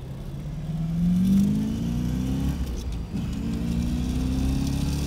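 1963 Corvette's 327 small-block V8 accelerating hard through its 4-speed manual: the revs climb, drop at an upshift about three seconds in, then climb again in the next gear.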